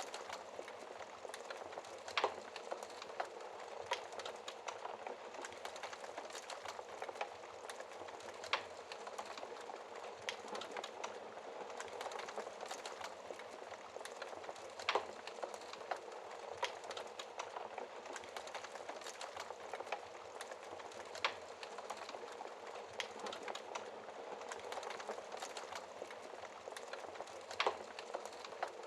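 Wood fire in a fireplace crackling steadily, with a constant hiss of burning logs and frequent small snaps, broken by a louder pop every few seconds.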